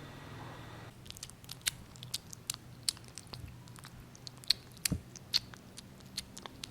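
Kitten eating, with irregular sharp clicks and smacks of chewing. A steady hum cuts off about a second in.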